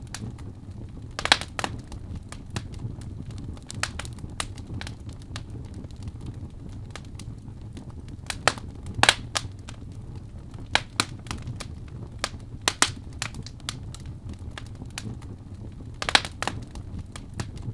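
Fire burning in a fireplace, crackling: a steady low rumble under irregular sharp pops. The loudest pops come about a second in, around nine seconds in and near the end.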